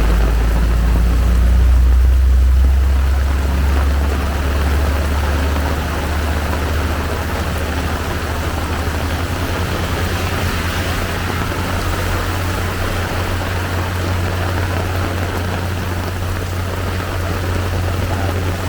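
Heavy downpour pouring steadily, with a low rumble underneath that is loudest about two seconds in.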